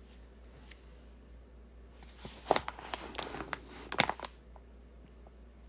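Handling noise close to a phone microphone: a run of sharp clicks and rustling about two to four seconds in, in a quiet small room.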